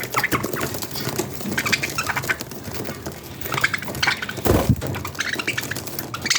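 Budgerigar chicks chirping in short, rapid bursts, with a dull thump about two-thirds of the way through.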